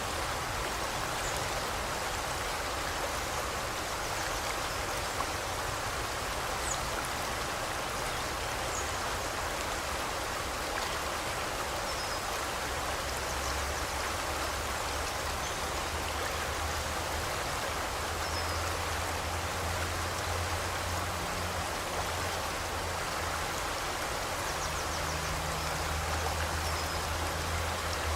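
A river or forest stream rushing steadily, with a few faint, high bird chirps now and then.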